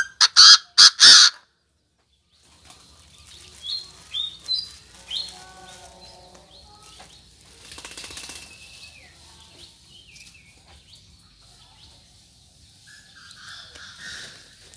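Birds: a burst of four loud, harsh strokes in the first second or so, then scattered softer chirps and short calls from other birds.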